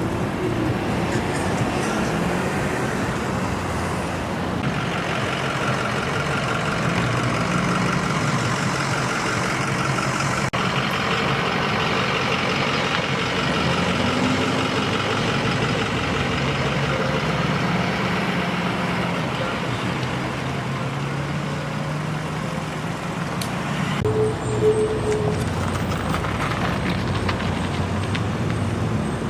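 Motor vehicle engines running with road traffic noise, steady throughout with a few abrupt shifts in the sound.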